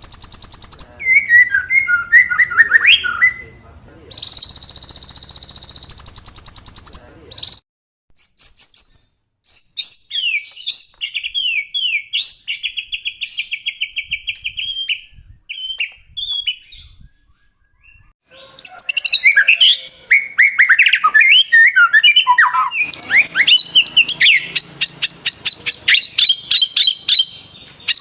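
White-rumped shama (murai batu) singing a long, varied song: very high rapid trills, a run of fast repeated notes, and loud whistled and chattering phrases, broken by two short pauses.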